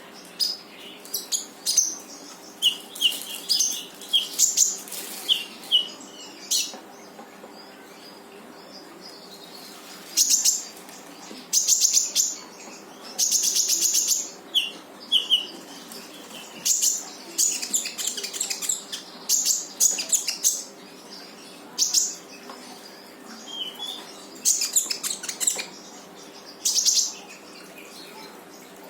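Konin bird singing without pause: short whistled notes alternating with bursts of rapid, high, buzzing trills, repeated every second or two. A faint steady hum lies underneath.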